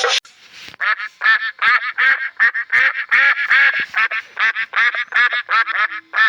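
An animal's short calls repeated quickly, about three to four a second, each a brief arching cry.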